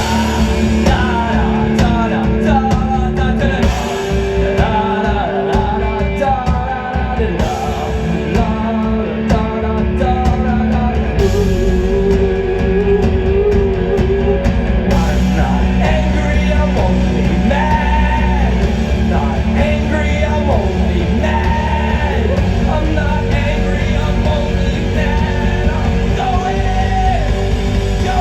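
Live rock band playing loud, with a singer's voice over the band.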